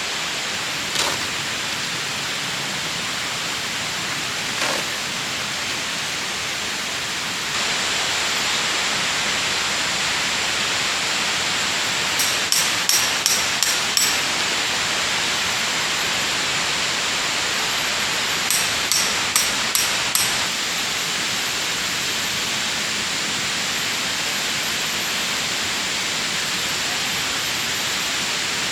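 A river flowing: a steady rush of water that gets louder about a third of the way in. Two short runs of quick, high-pitched chirps or clicks sound over it, about five or six each, a few seconds apart.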